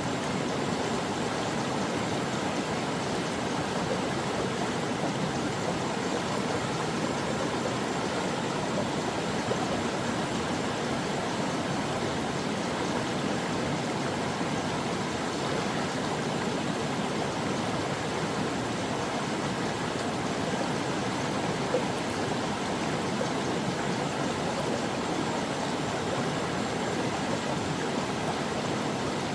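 Stream water flowing and burbling over rocks, a steady rushing sound with no pauses.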